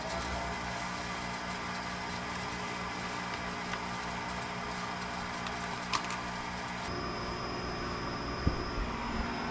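High-efficiency condensing gas furnace running on a call for heat, its motor just spun up to a steady hum. About seven seconds in the pitch mix shifts and a high whine comes in, with a few sharp clicks.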